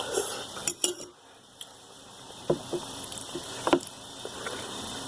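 Eating utensils clinking against a dish: two sharp clinks a little under a second in, then a few softer short knocks.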